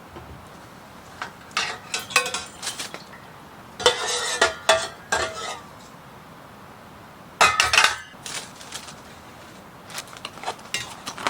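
Cutlery and dishes clinking and clattering in four short bursts, one after another.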